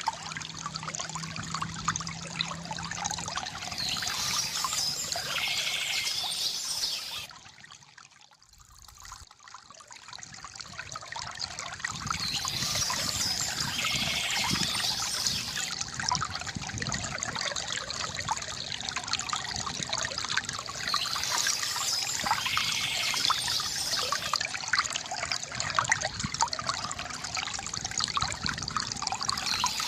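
River water gurgling and trickling steadily, with birds chirping in spells every several seconds. About eight seconds in, the water sound drops almost away for a second or so, then builds back up.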